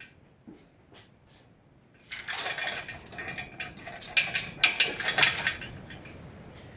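Metal clinking and rattling: a few light clicks, then about three and a half seconds of dense clattering metal with ringing clinks, easing off near the end.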